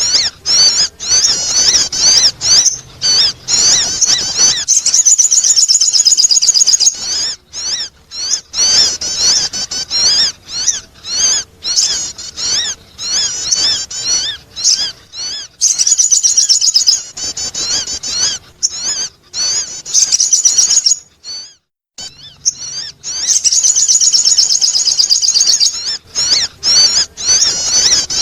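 Sogon bird calls used as a lure: rapid, high twittering chirps and trills in a near-continuous stream, with short pauses and one brief break about three-quarters of the way through.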